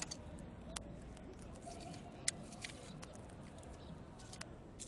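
Small wood fire crackling, with scattered sharp pops at irregular intervals, the loudest about two seconds in.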